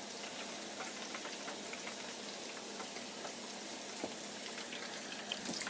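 Chicken deep-frying in a fryer of hot grease, a steady crackle and sizzle with many small pops, the chicken close to done.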